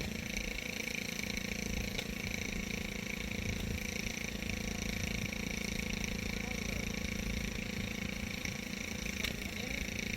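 An engine running steadily with an even hum, with faint clicks about two seconds in and again near the end.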